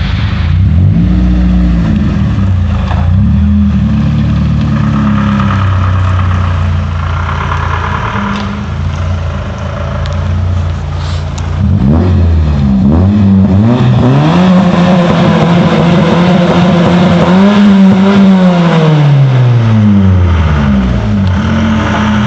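Opel Calibra's engine and exhaust idling with a couple of short rev blips, then revved up about halfway through, held, and let fall back to idle near the end.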